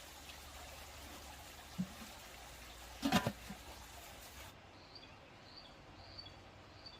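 Steady faint trickle of running water, with a soft thump and then a sharper knock about three seconds in. In the second half a small bird chirps repeatedly, short high notes roughly every half second.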